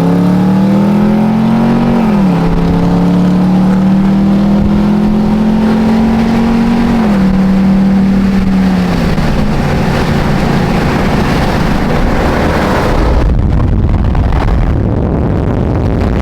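A car engine accelerating hard through the gears, its pitch climbing and dropping sharply at upshifts about two seconds and seven seconds in, then fading after about nine seconds. A low, steady rumble carries on afterwards.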